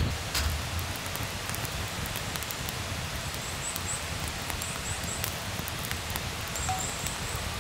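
Light rain falling steadily with scattered drips ticking, over an even hiss. Short runs of faint high-pitched chirps come twice, once around the middle and again near the end.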